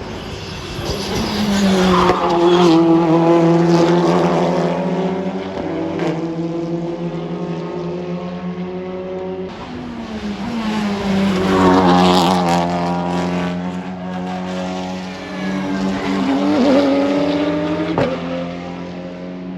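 Racing cars going past at speed on a circuit, three loud passes in turn. Each engine note swells and then drops in pitch as the car goes by.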